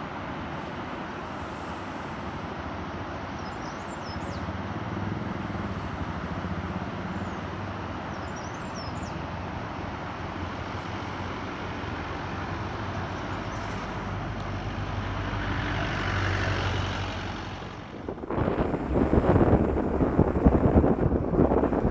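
Steady rushing noise of a vehicle on the move, with a few faint high chirps. About 18 s in, loud gusty wind buffets the microphone.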